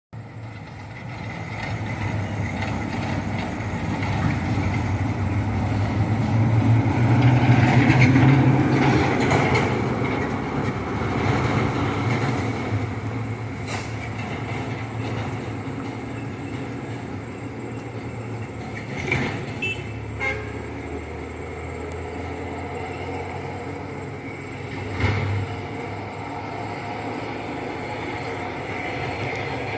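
Diesel dump truck driving past a bend: the engine's low rumble grows louder to a peak about eight seconds in, then fades to a steadier run, with a few short sharp knocks later on.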